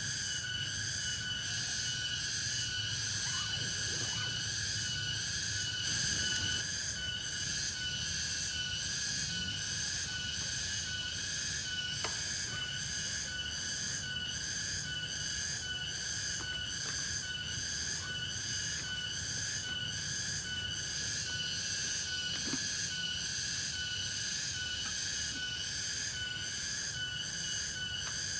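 Forest insects shrilling in a steady, high-pitched chorus that pulses about twice a second, with a few faint clicks.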